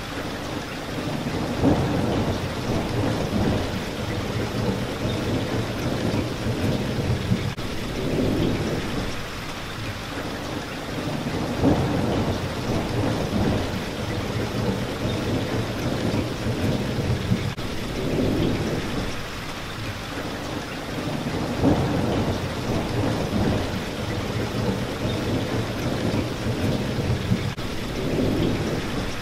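Steady rain hitting a window pane, with low rumbles that swell and fade about every five seconds.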